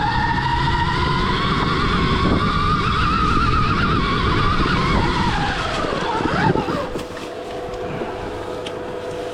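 Stark Varg EX electric dirt bike's motor whining under way, its pitch rising as it speeds up and then dropping away about five to six seconds in, over a rough rumble of tyres and wind. After that it is quieter, with a thin steady tone.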